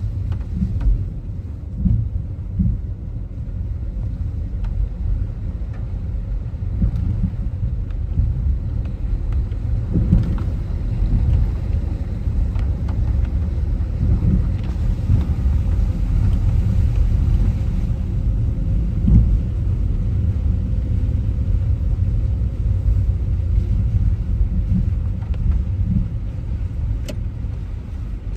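Car driving, a steady low rumble of road and engine noise that stays even throughout.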